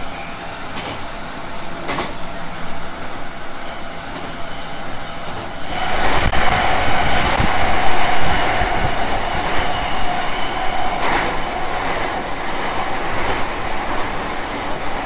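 Running sound inside a renewed JR West 221 series electric train: a steady rumble of wheels on rail with a few sharp knocks. About six seconds in it grows louder and rushes harder, then stays loud.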